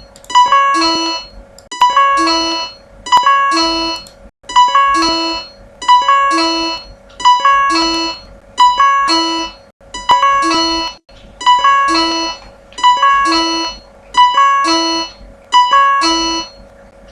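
MIDI file playing through a software synthesizer with a piano-like keyboard tone. The same short figure repeats about once a second: a held lower note with a few quick higher notes above it. The playback stops shortly before the end.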